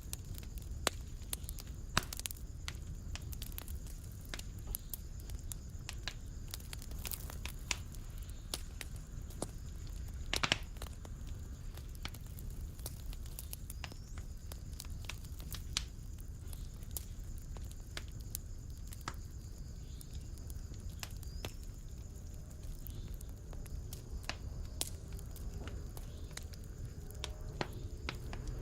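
Wood fire burning in a fireplace: a steady low rumble of flames with frequent sharp crackles and pops, and a louder pop about ten seconds in.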